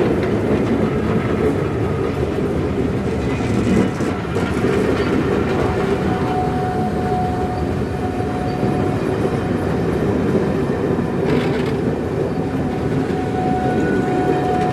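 Railway train rolling along the platform with a steady rumble and wheels clattering over the rail joints. A faint steady whine rises above it twice, mid-way and near the end.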